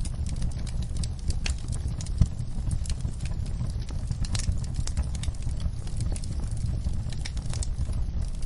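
Campfire burning with a steady low rumble of the flames and irregular crackles and pops from the wood, one sharper pop about two seconds in.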